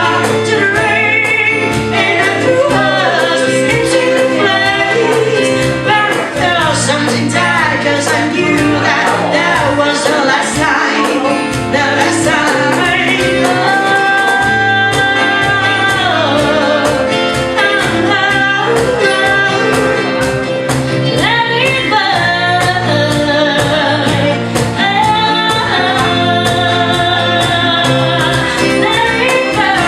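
A woman singing over a backing track with a steady beat, holding long notes with a wavering vibrato.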